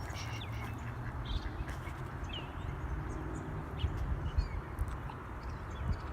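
Wind rumbling on the microphone, with a few faint short bird calls.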